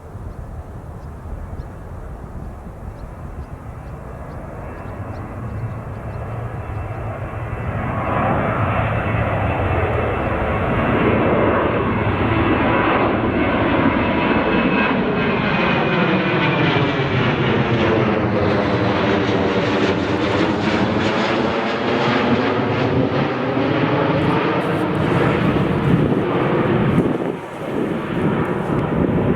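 Jet airliner engines passing low overhead. The noise builds over several seconds and then stays loud, with a sweeping, phasing sound as the aircraft passes closest, about two-thirds of the way through.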